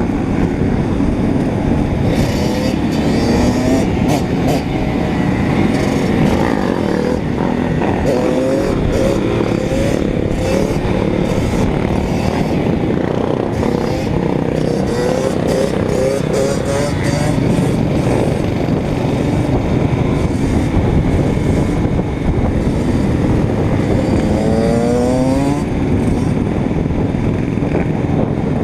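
Motorcycle engine running under way, its pitch rising and falling with the throttle over a steady noisy rush, with a sharp rising rev near the end.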